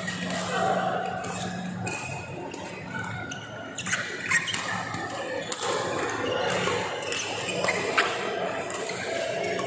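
Sneakers squeaking on an indoor court floor and a few sharp racket hits during a doubles match, echoing in a large hall.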